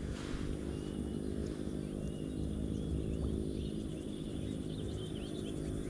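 Small birds chirping in short high calls over a steady low hum.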